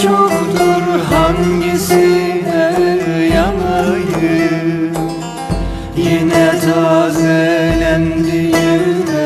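Instrumental Turkish folk music: a melody with plucked strings over a steady drone, with a low drum beat about every two seconds.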